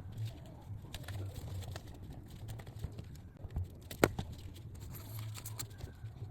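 Scattered clicks and taps of small parts being handled, with one sharp click about four seconds in, over a low hum that comes and goes.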